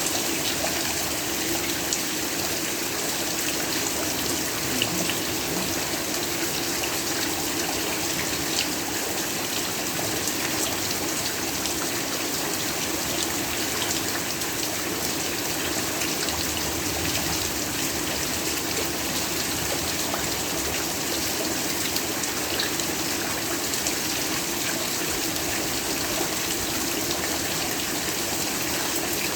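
Heavy rain falling steadily, a dense even hiss with many small drop ticks scattered through it.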